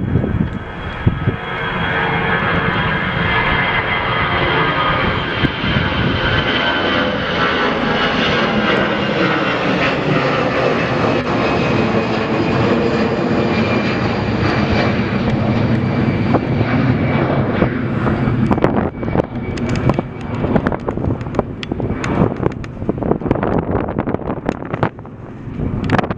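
Jet airliner passing close, its engines making a loud steady roar with a whine of tones that slowly falls in pitch. From about 18 seconds in, a run of short crackles joins the fading roar.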